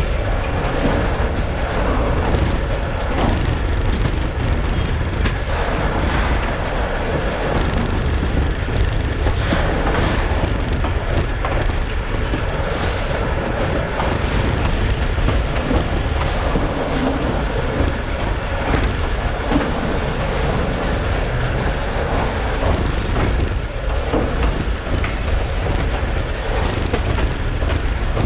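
Narrow-gauge train rolling slowly on the rails with a steady rumble, and short high-pitched squeaks coming and going.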